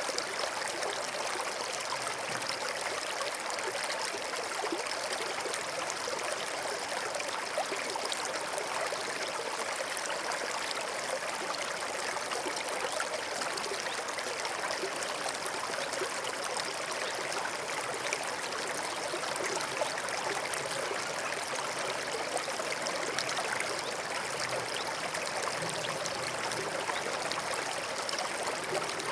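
A small stream running over stones, a steady rushing and trickling of water.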